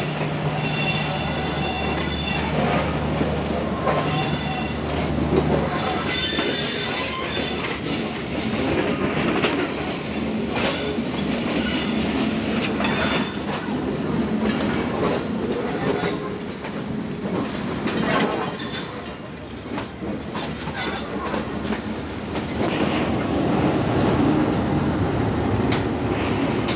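Passenger coaches rolling past at close range, their wheels clattering over the rail joints, with high wheel squeal in the first few seconds. Near the end a diesel locomotive passes close by, adding a louder low rumble.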